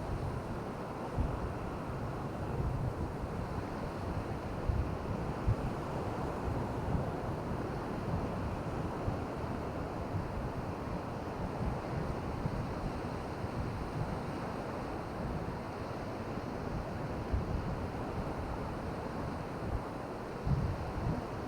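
Surf washing on a beach with steady wind, the wind buffeting the microphone in irregular low thuds.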